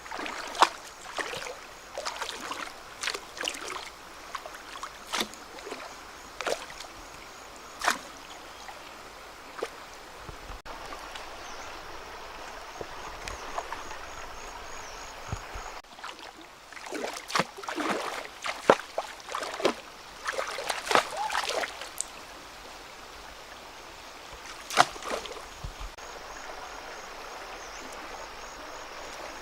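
Running river water with frequent short splashes and sloshes, clustered thickly in the latter half.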